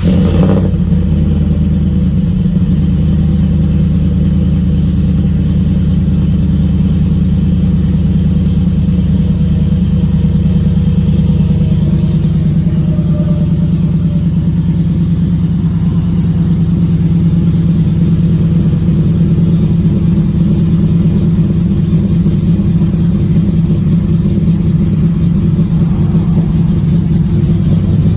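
Truck engine with a 216/220 aftermarket camshaft idling steadily right after starting, with a choppy cam idle.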